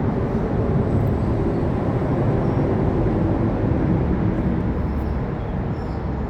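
Freight train cars rolling past a grade crossing: a steady rumble of wheels on rail, heaviest at the low end.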